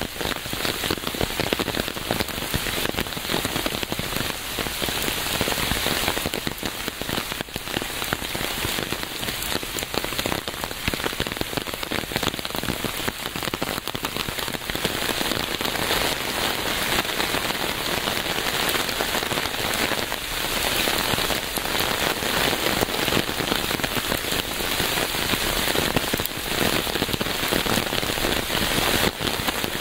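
Steady rain falling on a surface, a continuous hiss made of countless individual drops hitting, without let-up.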